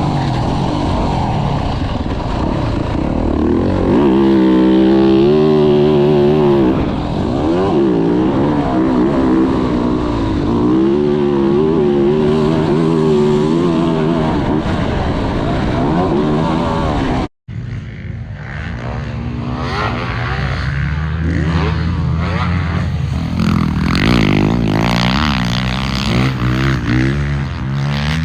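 Dirt bike engine, a 2024 Yamaha YZ450F's single-cylinder four-stroke, revving up and down through the gears while riding a motocross track. It drops out abruptly for a split second about 17 seconds in, then picks straight back up.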